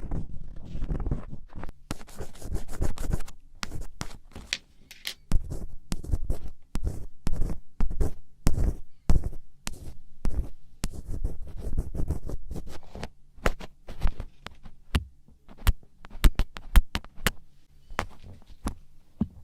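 Black ear pick scratching and scraping inside an ear, with many irregular sharp clicks among the scrapes.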